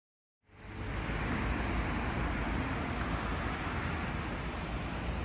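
Steady traffic noise with a low rumble, fading in from silence about half a second in.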